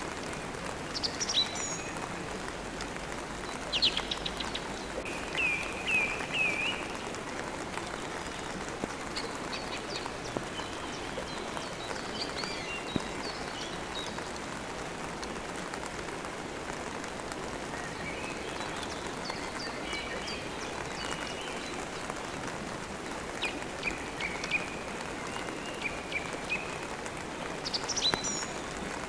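Steady rain falling, with birds chirping and twittering at intervals over it, including a quick run of repeated chirps about six seconds in.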